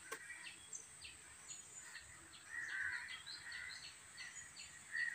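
Faint background birdsong: short, high chirps repeated a few times a second, with a louder call about two and a half seconds in.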